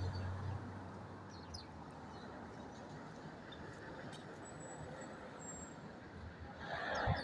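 Steady city traffic noise, with a vehicle's low engine hum at the start and a louder rush of noise near the end. A few faint sparrow chirps come through about a second and a half in.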